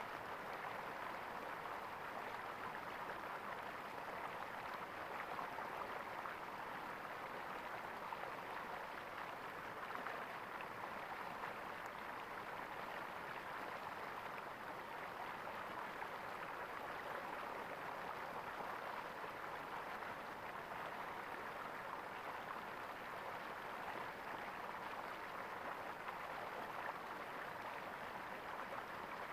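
Flowing water gurgling steadily, an even splashing rush with no pauses.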